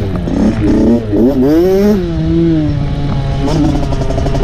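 Dirt bike engine revving: the pitch climbs sharply about a second in, drops back, then holds steady.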